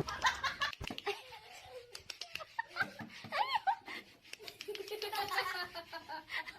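People laughing and giggling in short, choppy fits.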